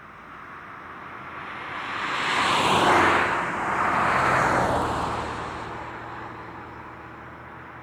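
Highway traffic: vehicles passing close by in quick succession, a tyre-and-engine whoosh that swells to a peak about three seconds in, peaks again about a second later, then fades back into the steady traffic noise.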